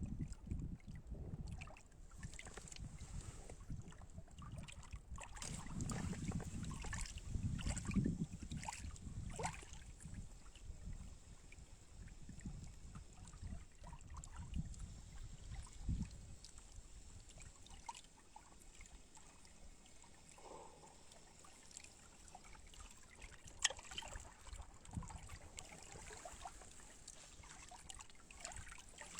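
Wind buffeting the microphone over faint water lapping, with scattered small clicks and knocks. The wind rumble eases off a little past halfway.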